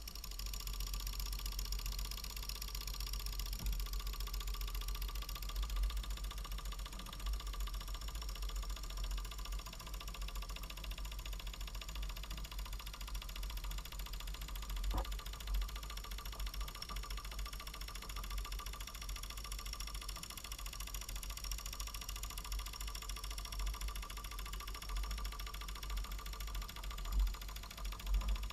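Small 5.4 cc model steam engine running steadily, with a fast chuffing pulse, a steady whine and a hiss of steam. A single sharp click about halfway through.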